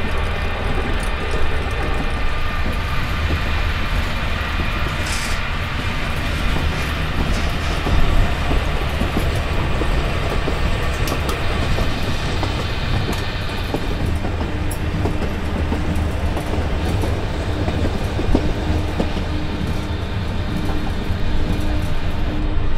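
Passenger sleeper train running on the rails, heard from inside the carriage: a steady rumble with occasional knocks from the wheels and track. A steady low hum joins about two-thirds of the way through.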